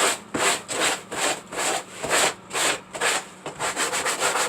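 Sandpaper rubbed by hand over a surface in back-and-forth strokes, about two and a half a second, quickening into shorter, faster strokes near the end: knocking the hard edges off the piece.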